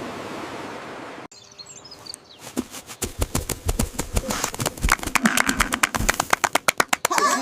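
Cartoon sound effects: a steady whoosh that cuts off, then a fast, building run of flutter-like taps, with bird chirping near the end.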